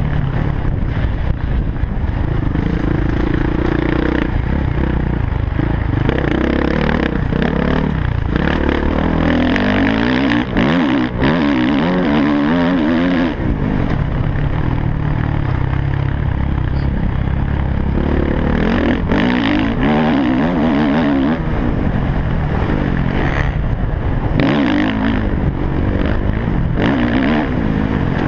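MX1 motocross bike engine heard from a helmet camera, revving up and falling back again and again through the gears, with occasional short knocks over the track.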